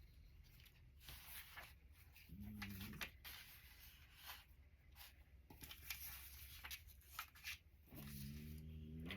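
Faint rustling and light clicks of paper cutouts being handled and shifted on a page, with two brief closed-mouth hums from a voice, one about two seconds in and a longer one near the end.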